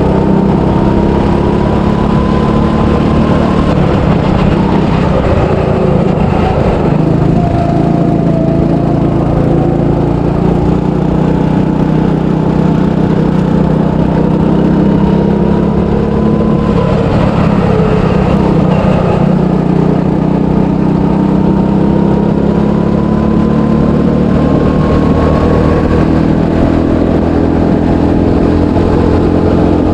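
300cc go-kart engine running hard through a lap, recorded on board, its pitch rising and falling gently as it speeds up and eases off.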